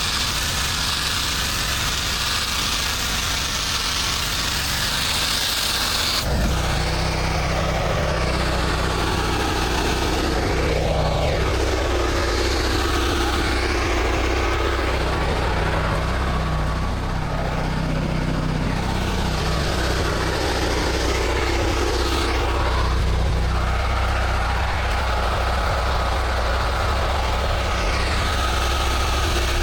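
Engine of the pressure-washing equipment running steadily. For the first six seconds a hiss of spraying water sits over it, then cuts off abruptly, leaving the low engine hum.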